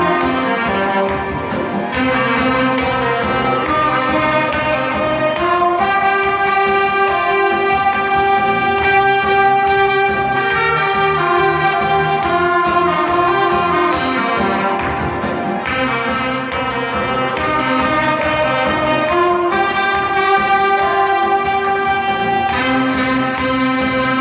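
Saxophone ensemble playing a melody in held, harmonised notes over a steady beat.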